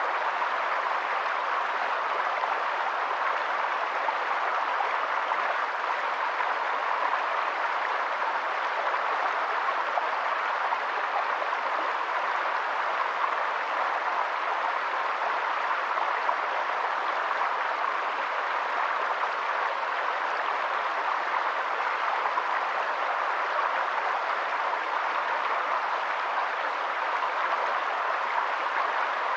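Steady, unbroken rush of water, even in level throughout.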